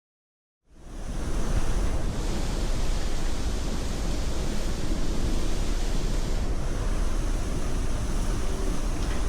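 Strong wind buffeting the microphone: a steady rushing noise with a heavy low rumble, fading in from silence within the first second.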